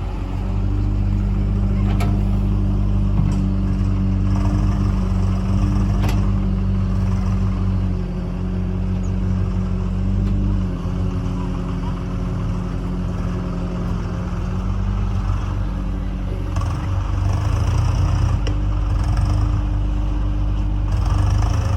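Heavy diesel machinery engine running steadily under load, with a low even drone whose pitch drops about halfway through, and a few sharp metallic clanks.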